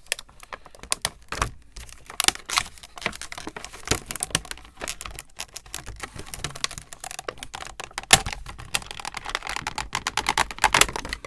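Funko Pop figure's cardboard box and plastic packaging handled close to the microphone as the figure is worked out: a dense, irregular run of clicks, taps and crackles.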